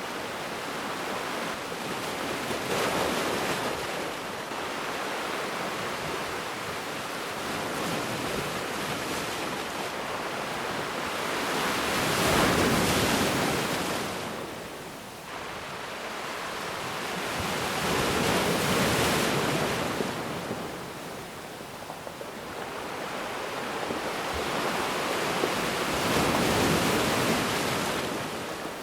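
Ocean waves breaking and washing up a beach. The hiss of surf swells and fades in four slow surges, the loudest about halfway through.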